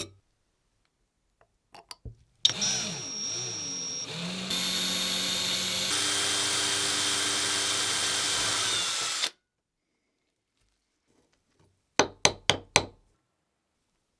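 A small electric power tool runs for about seven seconds. Its pitch wavers as it spins up, then it steps up in speed twice before it cuts off. A few light clicks come before it, and four sharp taps come near the end.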